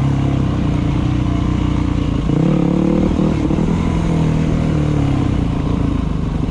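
Dirt bike engine running on a trail ride, the revs rising and falling as the rider works the throttle.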